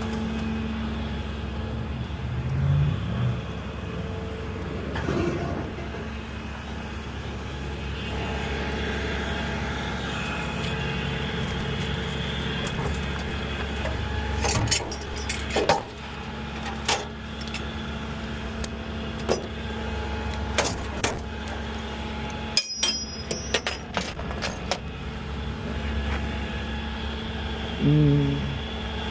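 A vehicle engine idling steadily, with scattered sharp metallic clicks and clinks, mostly in the second half.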